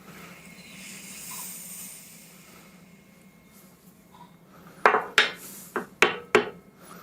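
Five sharp hammer taps on metal in quick succession about five seconds in, fitting a draw knife handle onto its tang and riveting over the end, after a soft hiss in the first two seconds.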